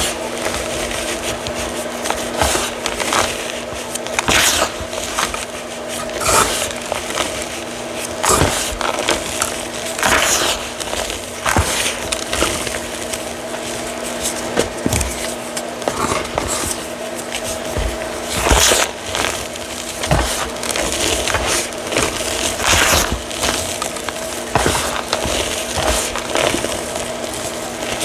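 Gritty reformed chalk crunching in irregular sharp bites, about one every second or two, over a steady background hum.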